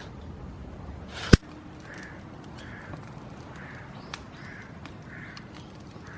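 A crow cawing over and over, about one call every three-quarters of a second. A single sharp knock cuts in about a second in and is the loudest thing heard.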